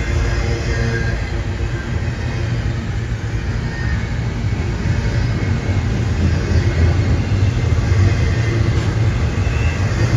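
A train running past, a steady loud rumble of wheels and cars on the rails.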